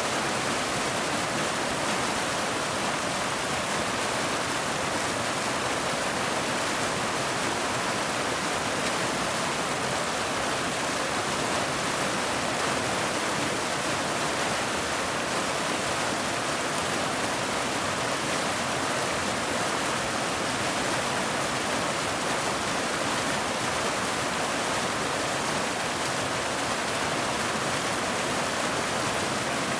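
Steady rain: a constant, even hiss with no single drops or thunder standing out.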